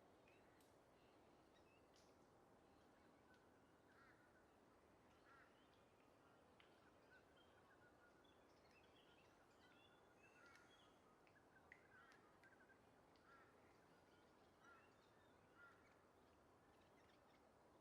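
Faint, scattered bird chirps and short calls over a low steady hiss.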